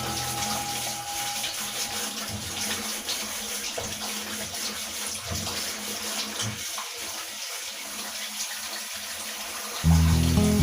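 A steady rush of running or splashing water. Background music fades out about a second in and comes back louder near the end.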